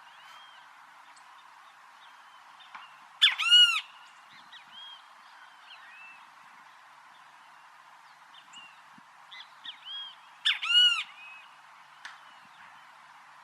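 Great kiskadee calling loudly twice, about seven seconds apart, each call a quick burst of a few notes. Fainter chirps of other birds and a steady hiss lie underneath.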